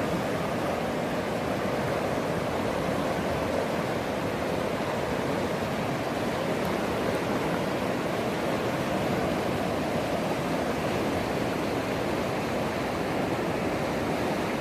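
Steady rush of a swollen mountain river in flood after heavy rain, the San Gabriel River's East Fork running high.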